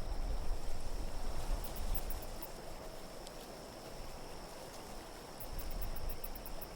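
Wind blowing in a low, steady rumble, with faint high tinkling twice, once about two seconds in and again near the end.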